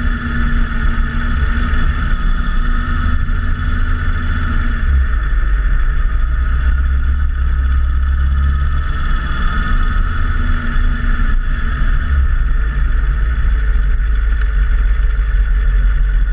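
Motorcycle engine running steadily while riding, with a steady rush of road and wind noise. The engine note shifts about five seconds in and again near twelve seconds.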